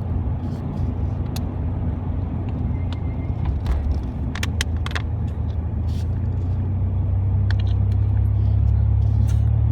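Truck driving, heard from inside the cab: a steady low engine and road drone that grows a little louder over the last few seconds, with a few light clicks and rattles.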